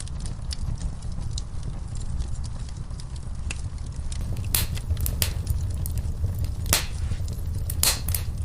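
Fireplace fire crackling: a steady low rumble of flames with scattered sharp pops, several louder ones in the second half.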